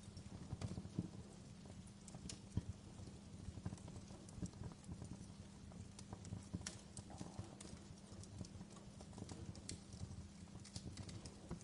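Fireplace crackling: faint, irregular sharp pops and snaps, some louder than others, over a steady low hum.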